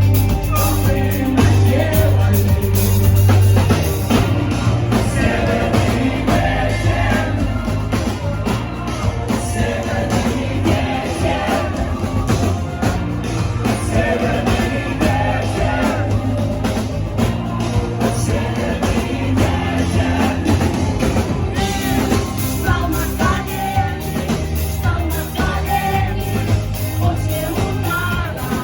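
Rock-styled pop song: a woman sings over a band with a steady beat and heavy bass.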